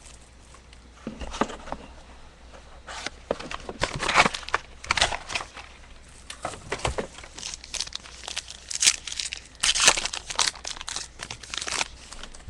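Wrapping on sealed trading card boxes being crinkled and torn open, in irregular rustles and short rips.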